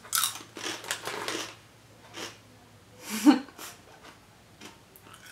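Crisp snack cracker crunched between the teeth, a run of crunches over the first second and a half and a few more later. A little past halfway comes a short vocal sound, the loudest moment.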